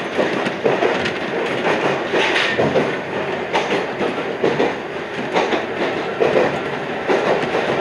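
Iyo Railway 3000-series electric train running along the line, heard from inside the front car: wheels clicking over the rails in repeated clickety-clack over a steady running rumble.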